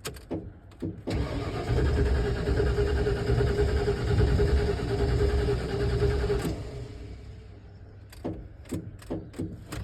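Truck engine turned over by its starter motor for about five seconds, cranking steadily without catching, then stopping. The owner bets the long-stored fuel is old and bad, which keeps the fuel-injected engine from running.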